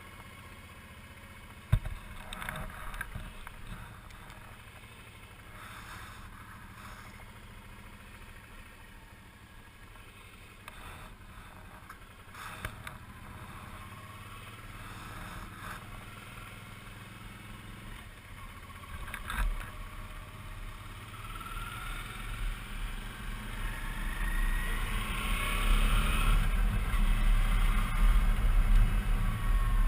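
Suzuki V-Strom 650's V-twin engine running under way, with a sharp knock about two seconds in. From about two-thirds of the way through, the engine rises in pitch and gets louder as the bike accelerates.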